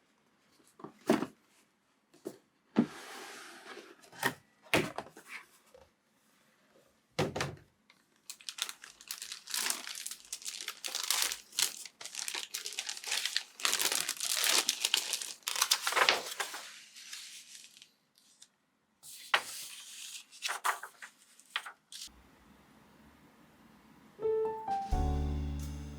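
Plastic packaging crinkling and rustling as it is handled, with scattered sharp knocks and clicks of plastic parts. Background music with clear notes begins near the end.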